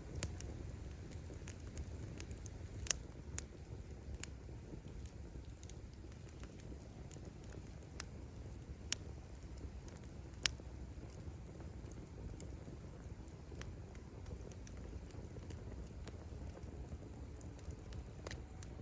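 Firewood burning in an open bonfire: a steady low rumble of the flames with scattered crackles and sharp pops as the wood splits, a few pops louder than the rest.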